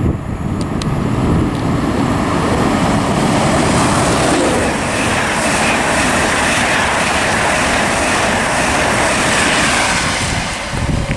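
Electric express passenger train, a Class 91 locomotive hauling an InterCity 225 set, passing through at speed. It makes a loud rushing roar of wheels and air that builds in the first second, holds, then drops away near the end.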